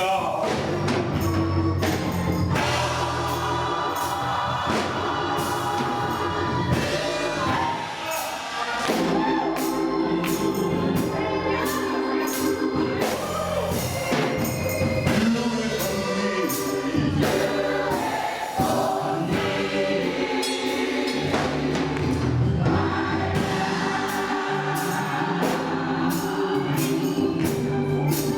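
Gospel choir singing in harmony with band accompaniment, bass and a steady beat.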